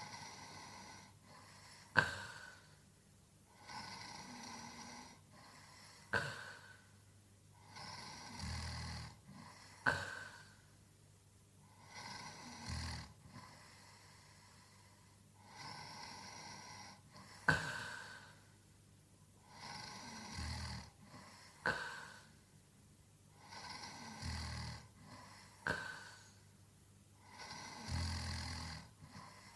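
A sleeping man snoring steadily, one snoring breath about every four seconds.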